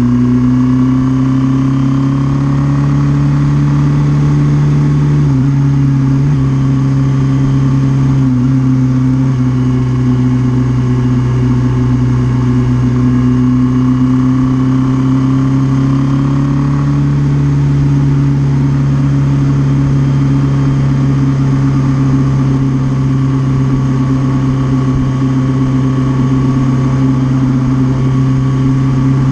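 Suzuki GS650G motorcycle's air-cooled inline-four engine running at a steady speed, its pitch holding even throughout, with only slight brief dips.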